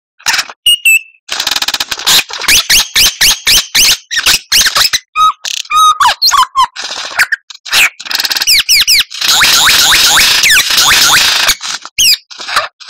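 White-rumped shama (murai batu) singing a fast, varied song: rapid rattling clicks, sharp whistled notes and quick sweeping trills, with a long unbroken run of rattling trills in the second half.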